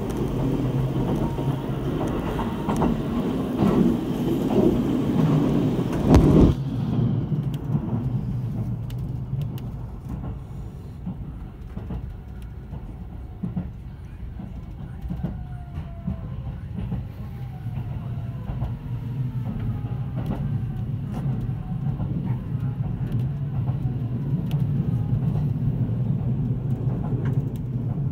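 Inside a JR 373 series limited-express electric train running along the line: a steady rumble of wheels on rail. It is louder and brighter for the first six seconds, ending in a sharp knock, then goes duller, with a faint gliding whine in the middle.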